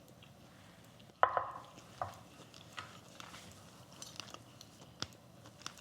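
A utensil knocking against a rice bowl while eating: one sharp clink with a short ring about a second in, a smaller one soon after, then a few light taps.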